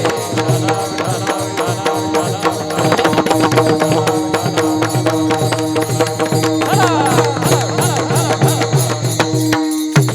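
Devotional kirtan music: drums strike a fast, steady beat under sustained held tones. Near the end the drum beat stops briefly while a single held note carries on.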